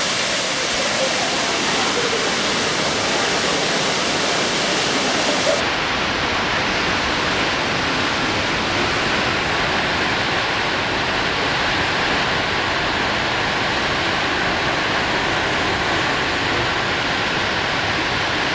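Waterfall rushing: a loud, steady wash of falling water. About five and a half seconds in it loses some of its top hiss.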